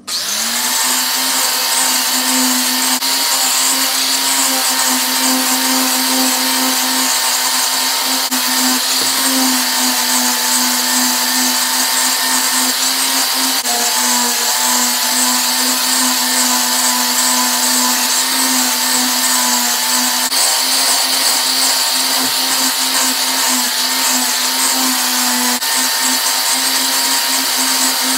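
Small electric power tool motor spinning up and then running steadily at constant speed, with a steady hiss over its hum.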